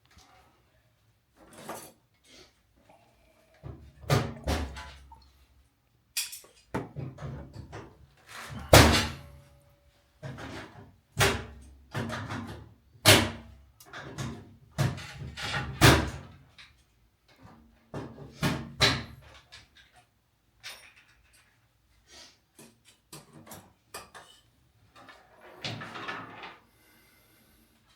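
A long, irregular series of knocks and clunks of hard objects being handled, loudest about nine seconds in and thinning out near the end.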